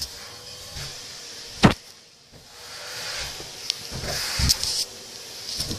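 Handling noises as doll clothes are sorted: fabric rustling and light clicks, with one sharp knock about a second and a half in.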